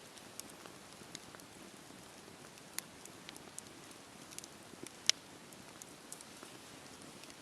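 Wood bonfire crackling: a steady soft hiss with scattered sharp pops, the loudest about five seconds in.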